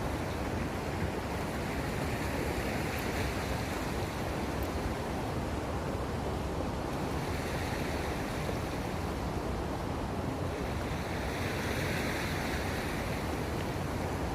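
Sea waves washing in at the harbour edge, a steady rush of surf that swells every few seconds, with wind on the phone's microphone.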